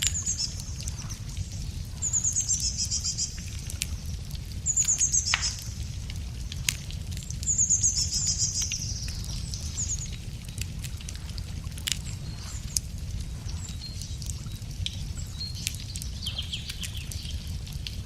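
Wood fire crackling with scattered sharp pops over a low steady rumble, while a songbird sings high trilled phrases three times, about two, five and eight seconds in, and more faintly near the end.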